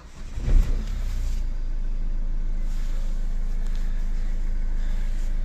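Renault Kangoo 1.5 dCi diesel engine cranked briefly by the starter and catching within about a second, then idling steadily.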